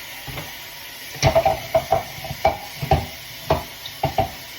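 Dishes clinking against each other and the dishwasher rack as they are handled: a run of sharp clinks starting about a second in, some ringing briefly.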